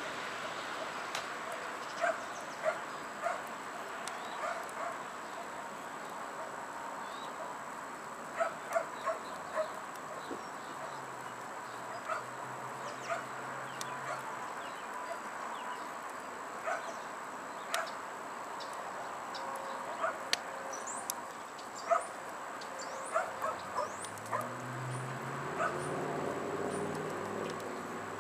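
A dog barking and yipping repeatedly in short, irregular bursts over steady outdoor background noise, with faint bird chirps; a low rumble swells near the end.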